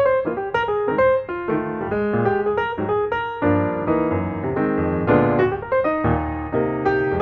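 Background piano music: a steady run of notes with chords underneath.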